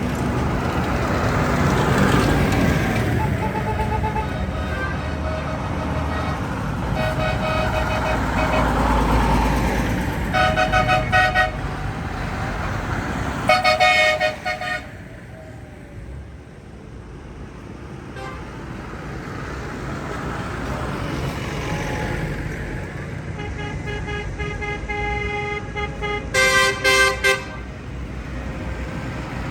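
Tractors driving past one after another with their engines running, the sound easing for a few seconds midway and then building again as more arrive. Horns toot repeatedly in short bursts, several beeps at a time, loudest about halfway through and again near the end.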